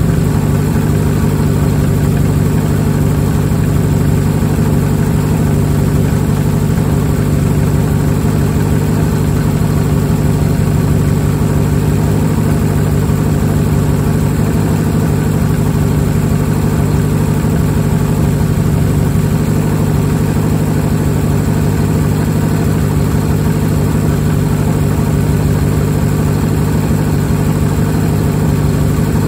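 Nissan S13 Silvia's naturally aspirated 2.2-litre four-cylinder, fitted with individual throttle bodies and a straight-piped exhaust, idling steadily.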